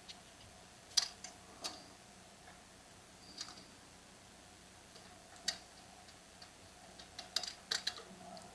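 Sparse light clicks and taps of small chainsaw parts and fuel line being handled on the bench: a few scattered ones, then a quick cluster near the end, over a faint steady hum.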